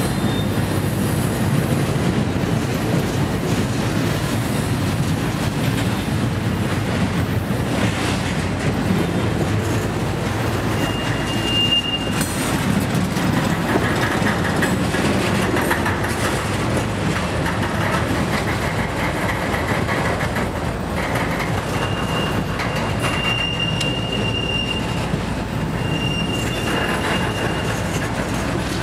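Freight train cars rolling past on curved track: a steady rumble of steel wheels on rail, with thin high wheel squeals, briefly about 11 seconds in and again on and off near the end.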